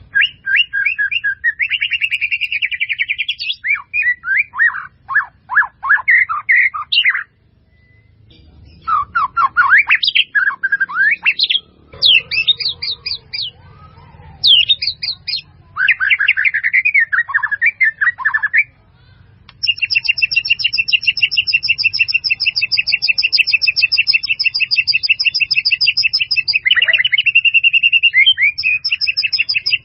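White-rumped shama (murai batu) singing a loud, varied string of whistled and chattering phrases with short pauses between them. From about two-thirds of the way through it holds one long, rapid trill for roughly ten seconds.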